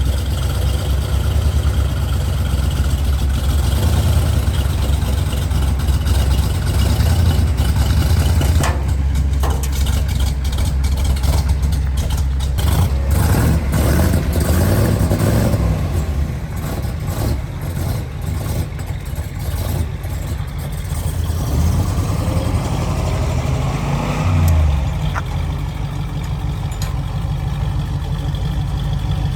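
A motor vehicle's engine running with a steady deep rumble. It rises briefly in pitch about halfway through and again in the last few seconds, with scattered knocks in the middle.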